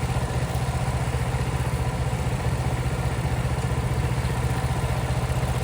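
Engine idling steadily, with no change in speed.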